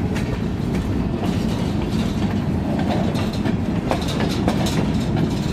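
Freight cars rolling past, with a steady low rumble of wheels on rail and irregular clicks and clanks as the wheels cross rail joints.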